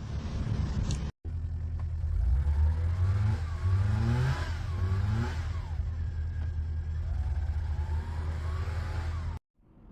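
Car engine revving up in three rising surges, then running steadily. The sound drops out briefly about a second in and cuts off abruptly near the end.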